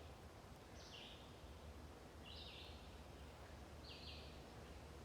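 Faint bird calling in the forest: a short, high two-part call repeated about every second and a half.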